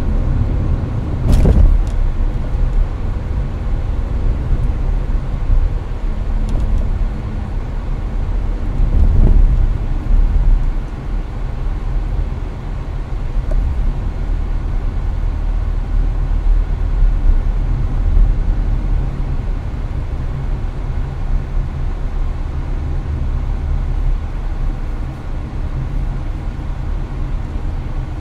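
Inside a Hyundai Avante's cabin at highway speed: a steady deep road and tyre rumble with the air conditioner blowing hard. A single sharp knock comes about a second in, and the rumble swells briefly near the middle.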